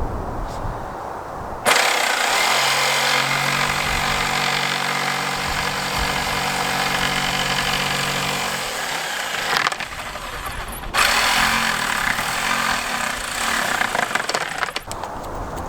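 Electric jigsaw cutting through wood in two runs, the first about eight seconds long and the second about four, with a short stop between them.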